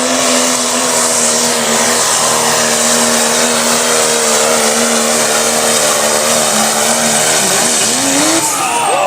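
Diesel pickup truck engine at full throttle pulling a sled, a loud steady high drone. About seven seconds in, the pitch dips and wavers, then falls away as the engine comes off the throttle.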